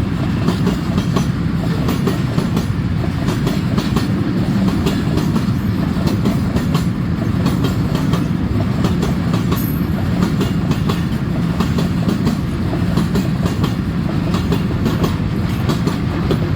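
Freight train of tank cars rolling past: a steady low rumble with a continual rapid clatter of wheels over the rail joints.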